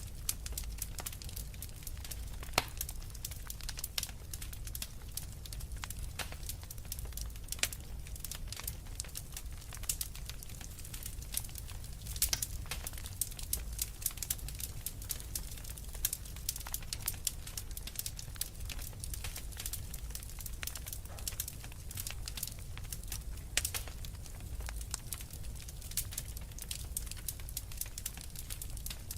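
Wood fire crackling: logs burning in a fireplace, with dense irregular sharp pops and snaps over a steady low rumble of the flames.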